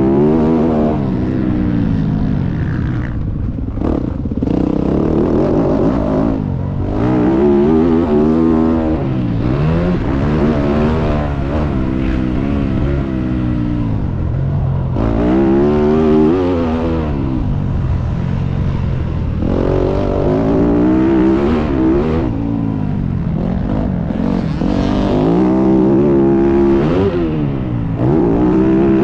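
Motocross dirt bike engine being ridden hard. Its pitch climbs under throttle and falls back again and again as the rider accelerates and shuts off, with a couple of brief throttle-off drops early on.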